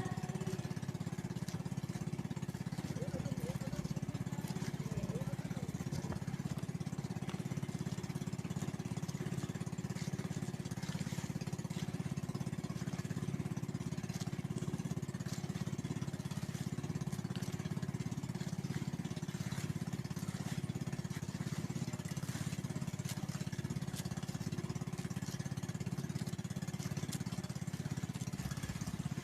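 Small boat's engine running steadily at a constant pace, a low, even drone.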